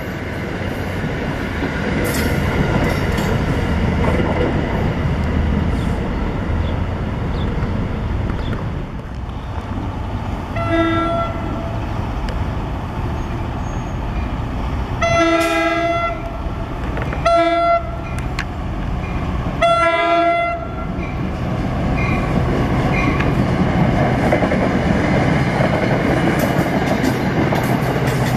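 Rumble of a commuter train moving along the track, then a multi-note train horn sounds four blasts for the grade crossing: short, long, short, long. After that a push-pull commuter train passes, with wheel rumble and clatter over the rails, and near the end the diesel locomotive pushing at its rear comes close.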